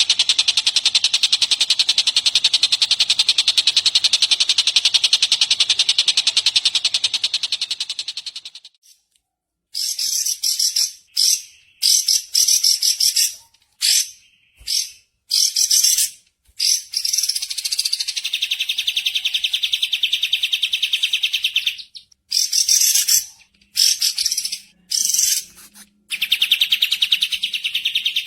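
Recorded songbird song: a long, very rapid high trill that fades out about eight seconds in, then after a short gap a run of short high trilled phrases broken by brief pauses.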